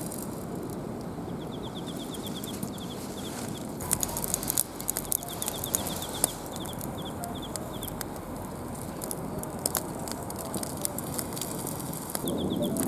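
Runs of rapid, short, high chirps, about six a second, coming three times, over a steady background noise with scattered clicks around the middle.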